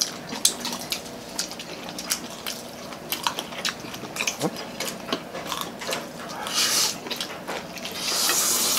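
Several people chewing and biting into crispy fried chicken, a run of quick crunches and mouth smacks. Two longer hissing sounds come in, one a little past halfway and one near the end.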